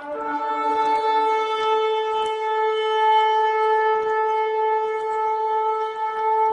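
A wind instrument holding one long, steady horn-like note that starts abruptly and does not change pitch.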